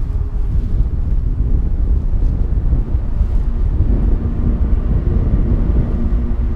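Wind buffeting the microphone during a gusty paragliding flight: a loud, fluttering low rumble that keeps shifting in strength.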